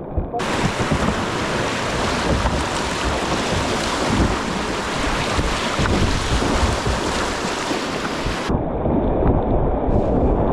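Loud, steady rush of river whitewater at high flow, with wind buffeting the microphone. About eight seconds in the sound turns duller, losing its hiss.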